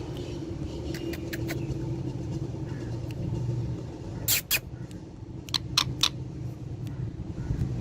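A pet parrot giving short, sharp squeaks in quick groups of two to four, over a steady low hum.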